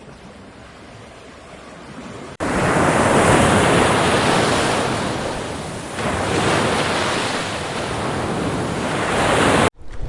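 Loud rushing roar of ocean surf in surging swells, cutting in suddenly after a quieter stretch of noise and cutting off abruptly near the end.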